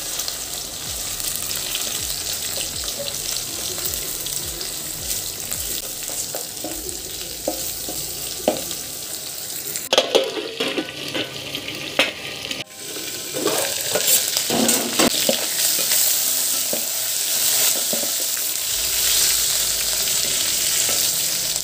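Vegetables frying and sizzling in a pan as they are stirred, with the utensil clattering against the pan now and then. The sizzle grows louder past the middle.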